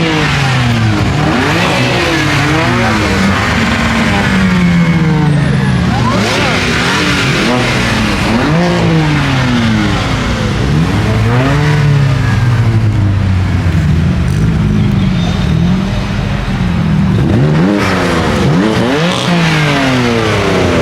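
Car engines revving hard again and again, the pitch climbing and dropping every second or two, over a steady hiss.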